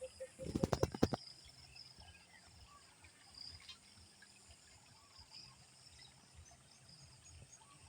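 Insects chirring steadily in the rice field, high-pitched. About half a second in, a quick run of loud thumps lasting roughly half a second.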